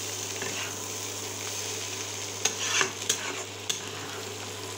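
Egg and shredded-potato bhaji sizzling in oil in a frying pan as a metal spatula stirs it, near the end of cooking. A few sharp clicks and scrapes of the spatula against the pan come about halfway through.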